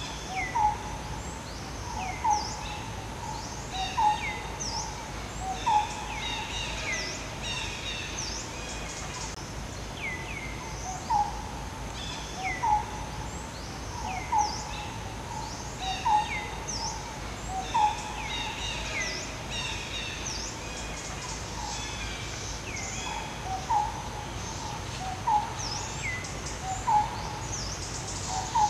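Forest birds calling: a short note near 1 kHz repeated every second and a half or so, mixed with quick high chirps that sweep downward and clusters of higher twittering notes.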